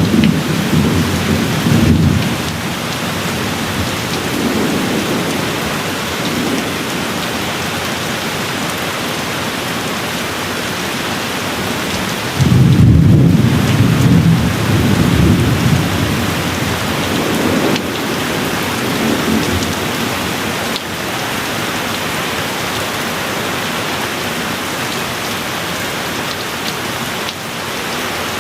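Steady rain falling, with rolls of thunder. A low rumble dies away in the first couple of seconds, softer rumbles come and go, and about halfway through a louder roll starts suddenly and fades over several seconds.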